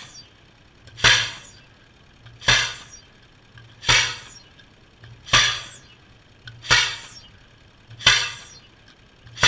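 A weapon firing over and over, about seven sharp blasts evenly spaced roughly a second and a half apart, each trailing off in a hiss, with a low steady hum underneath.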